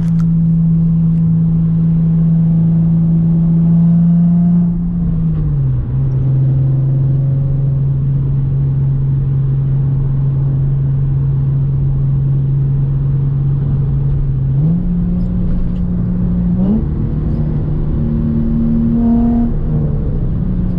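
Nissan 350Z's 3.5-litre V6 running through test pipes, an H-pipe and a cutback exhaust, holding steady revs with a constant drone, a note the owner finds a little too raspy. The engine note drops about five seconds in, holds, then climbs in two steps near the end before settling back.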